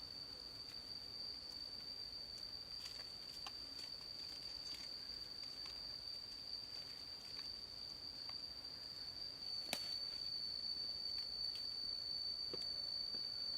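Steady high-pitched insect drone, one unbroken tone, with scattered light clicks and a sharper click about ten seconds in.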